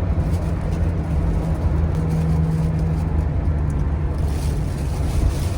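Steady low drone of a moving road vehicle's engine and tyres heard from inside the cabin, with a steady hum that swells a little about two seconds in.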